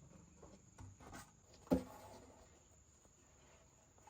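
A few faint clicks and knocks, with one sharp knock, much louder than the rest, nearly two seconds in.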